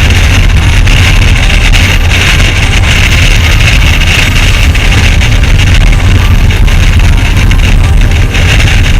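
Motorcycle riding at speed: the engine runs steadily under loud road and wind noise.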